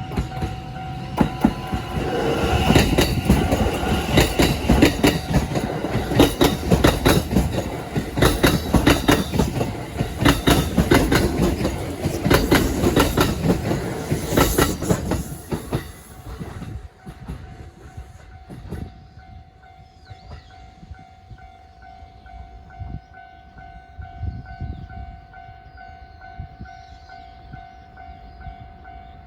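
A Kintetsu electric train passing over a level crossing, its wheels clacking over the rail joints in quick runs, for about sixteen seconds before the noise drops away. The level-crossing warning bell rings steadily throughout and keeps ringing after the train has gone.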